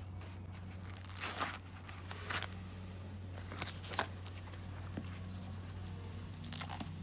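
Corn husks being torn and peeled off the cobs: a few short crackly rips over a steady low hum.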